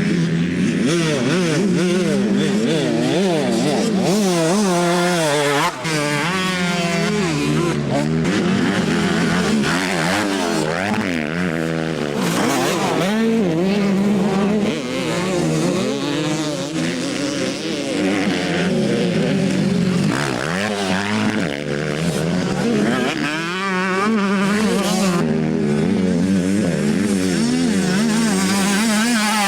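Several motocross bikes running on a dirt track, their engines revving up and down through the gears over a steady lower engine note.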